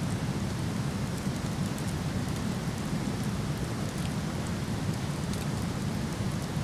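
Waterfall rushing steadily, a dense low wash of falling water, with faint scattered crackles from a burning wood fire.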